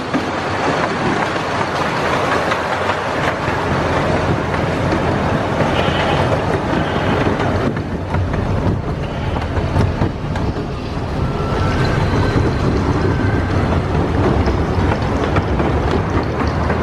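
A miniature train running along narrow-gauge track, heard from an open passenger car: a steady rumble and rattle of the cars rolling over the rails.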